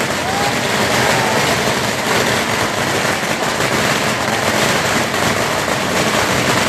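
Dense, continuous crackling and popping of firecrackers, loud and unbroken, with a brief whistle-like tone about half a second in.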